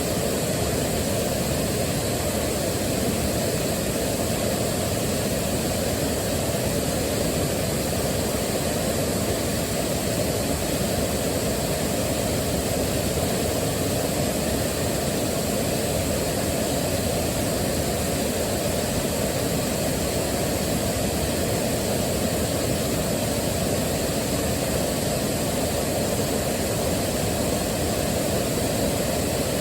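A waterfall: a steady, unbroken rush of falling water, heavier in the low pitches.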